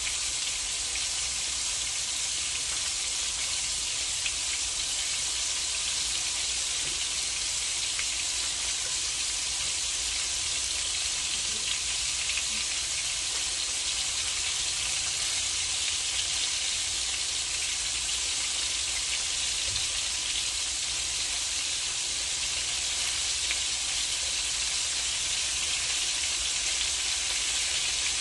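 Ground meat patties frying in a pan, sizzling with a steady hiss.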